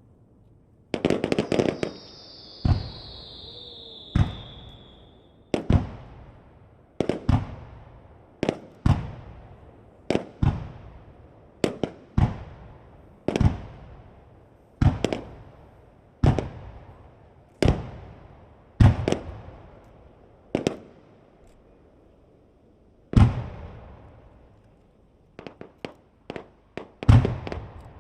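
Aerial firework shells bursting in a starmine display: a quick cluster of bangs about a second in with a whistle falling in pitch over it, then single booms about every second and a half, each trailing off in a rolling echo. Near the end comes a rapid cluster of sharper pops.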